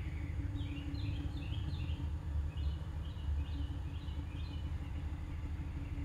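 A small bird chirping over and over, about a dozen short falling chirps over a few seconds, above a steady low rumble with a faint hum.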